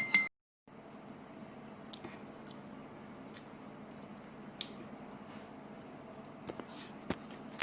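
Quiet, wet chewing and eating sounds, with a few faint clicks scattered through.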